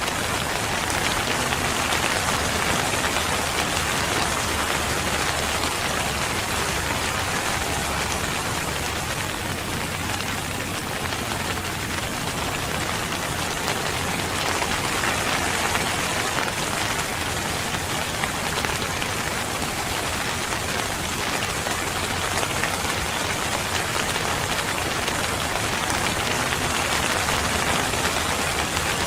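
Steady rain falling, an even hiss of many drops on a surface, with no change in strength.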